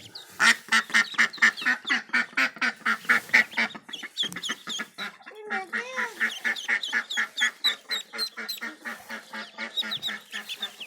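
Ducks quacking in a fast, steady run of short calls, with high thin peeps from ducklings joining in over the quacking from about four seconds in.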